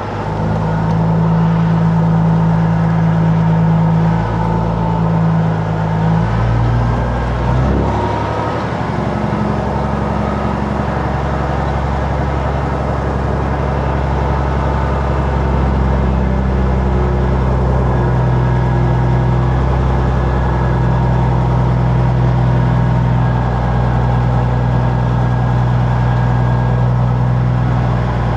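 Peterbilt 379 diesel truck engine running at low speed while the rig is maneuvered. Its pitch shifts up and down between about six and eight seconds in, then holds fairly steady.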